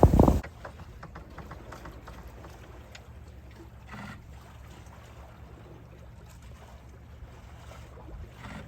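Wind buffeting the microphone, cut off abruptly about half a second in. A quiet, steady low hum with faint scattered crackles follows.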